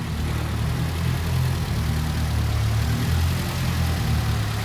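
Vehicle engine running steadily, a low hum that changes little in pitch.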